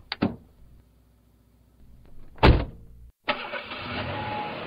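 Car sound effects: two short clicks, then a car door shutting hard about two and a half seconds in, and the engine starting about a second later and running steadily.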